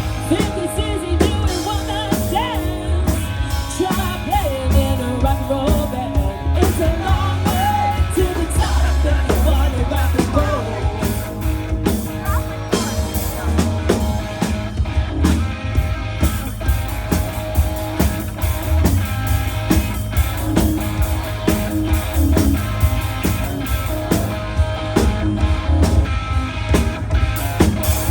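Live rock band playing, with drums, bass and electric guitar and a sung or lead melody line over roughly the first ten seconds.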